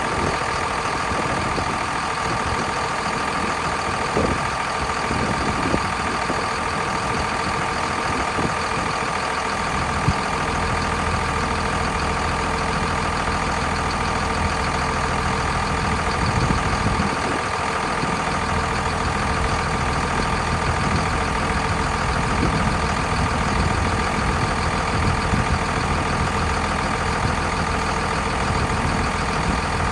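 2000 Cummins ISB inline-six turbo diesel engine idling steadily, with a constant whine over a low, uneven rumble.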